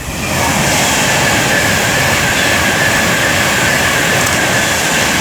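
Avanti West Coast Class 390 Pendolino electric train passing at speed. A loud, steady rush of wheels and air that swells in quickly, with a steady high whine through it.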